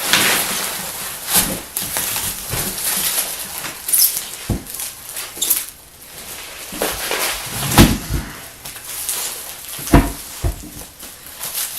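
Packing peanuts and a cardboard box rustling and squeaking as a heavy transmission is tipped out of its box, with three dull thumps along the way.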